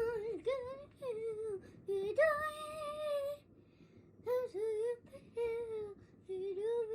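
A child singing wordlessly in a high voice, in short phrases of held, wavering notes with brief pauses between them.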